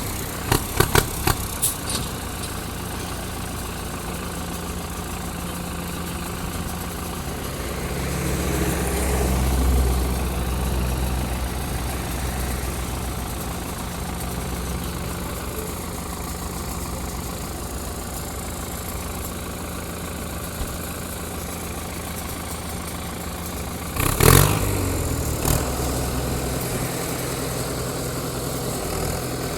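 Diesel engine of a heavy earthmoving machine running steadily, swelling louder about nine seconds in as it takes load. Sharp metallic knocks and clanks come right at the start and again in a loud cluster about 24 seconds in.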